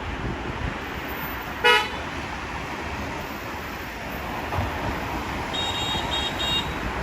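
Steady wind and road rush from riding, cut by one short, loud vehicle-horn beep under two seconds in, then three quick, high-pitched electronic beeps near the end.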